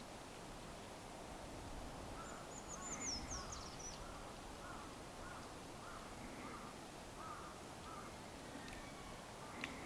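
Faint bird calls: a long run of short, repeated caw-like calls, with a brief high twittering from a small bird about two seconds in.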